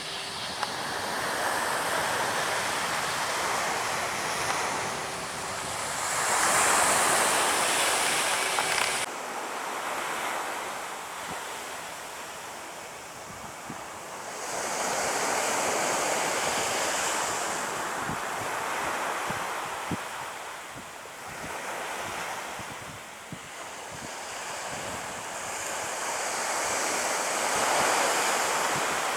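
Surf breaking on a beach, the wash swelling and fading in several surges, with wind on the microphone.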